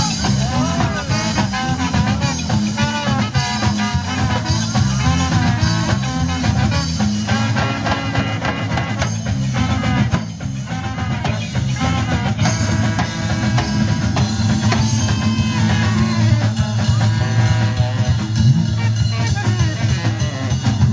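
Band music with a steady drum-kit beat and guitar under a melody line that bends in pitch; it dips briefly about halfway through.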